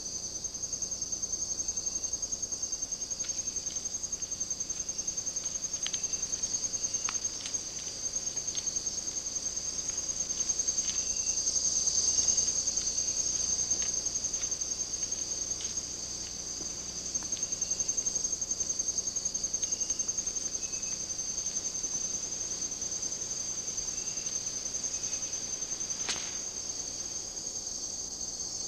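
A chorus of rainforest insects trills steadily and high-pitched, with faint short chirps scattered through it and a single sharp click near the end.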